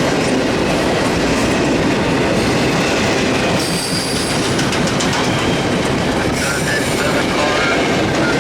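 CSX freight train cars rolling past on the rails at a steady level, with thin, high wheel squeals rising over it about three and a half seconds in and again near the end.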